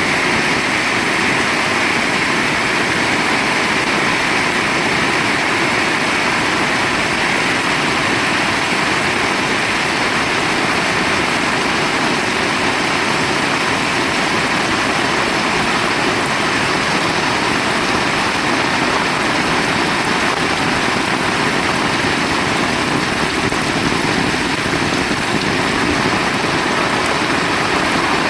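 Heavy rain pouring down in a dense, steady hiss that holds at one level throughout.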